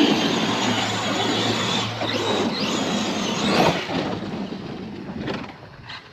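Large electric RC car driving hard: the brushless motor's whine sweeps up and down in pitch over a rush of tyre and drivetrain noise. It is loudest for the first four seconds, then fades as the car gets farther off.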